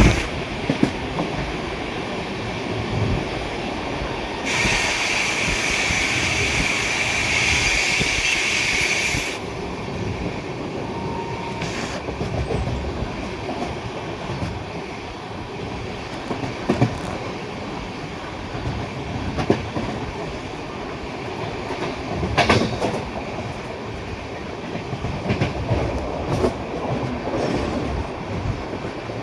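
Express train running at high speed through a station, wheels clacking over rail joints under a steady rumble. From about four and a half to nine seconds in, a louder, higher hissing rush rises over it and then drops away suddenly.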